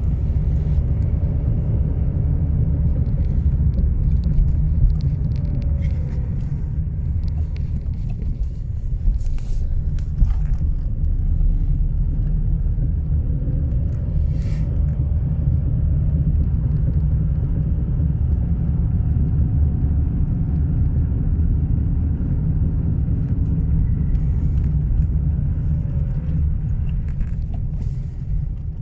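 Skoda Superb's 1.9 TDI four-cylinder diesel (ASZ unit) running with a steady low rumble, and faint tones that rise and fall now and then. The owner reports a chirping sound from this engine along with limp mode and fault code P2279, an intake air leak.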